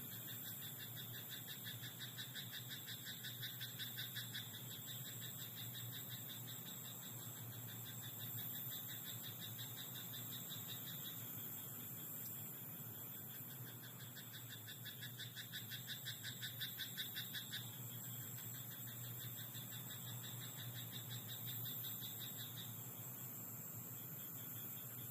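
Frogs in a rice paddy calling in a chorus of fast, rattling pulsed croaks. The bouts last several seconds and overlap one another, with a short lull around two-thirds of the way through.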